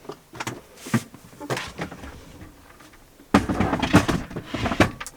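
A few light knocks, then from about three seconds in a sudden louder stretch of clattering and rustling, like things being handled or a door or cupboard being worked.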